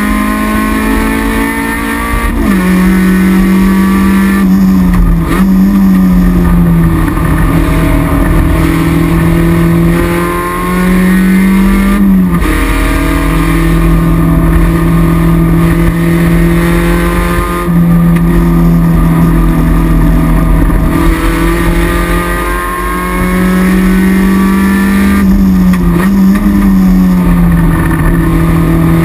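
Toyota MR2 AW11's mid-mounted 4A-GE four-cylinder engine, heard from inside the stripped race cabin, running hard on track. Its pitch climbs slowly and drops sharply about three times as the revs change.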